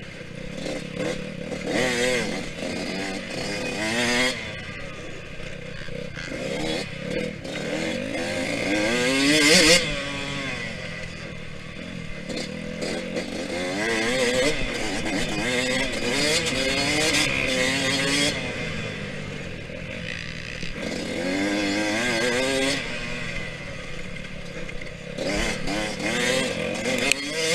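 Yamaha YZ125X's 125 cc two-stroke single-cylinder engine revving up and backing off again and again while ridden hard on a dirt track, the pitch climbing and falling with each burst of throttle, loudest just before ten seconds in.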